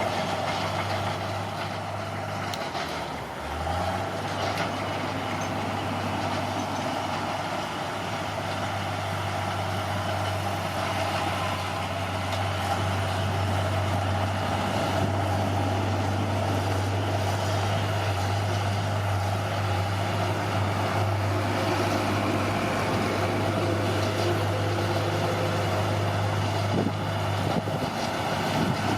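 Diesel engine of a heavy earthmoving machine running steadily, its low note dipping briefly about three seconds in before it picks back up.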